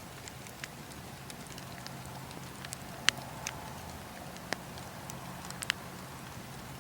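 Campfire crackling: scattered sharp pops and snaps from burning wood, the loudest about halfway through, over a steady low hum and hiss.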